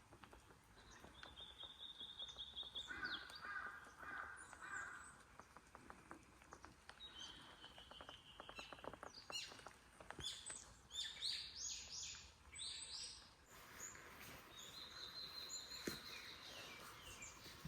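Faint wild birdsong: several birds trilling and chirping, with high rapid trills near the start and end and a quick run of falling chirps in the middle.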